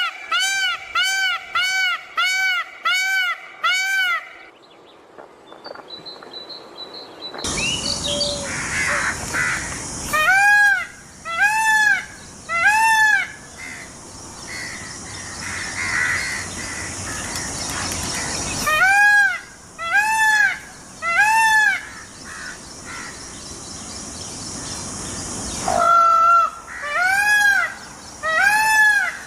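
Indian peafowl (peacock) calling: loud, repeated rising-and-falling cries about half a second each, given in a run of about six, then in groups of three with pauses between. A steady hiss fills the background through the middle of the stretch.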